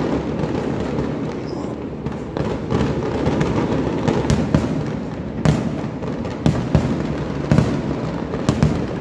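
Fireworks going off: a continuous rumble of explosions with sharp bangs and cracks standing out, coming more often from about four seconds in.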